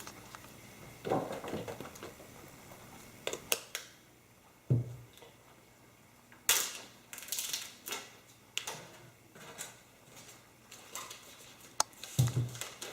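Scattered taps, clicks and rustles of an iPhone box and its packaging being handled during unboxing, in short separate bursts with quiet gaps between them.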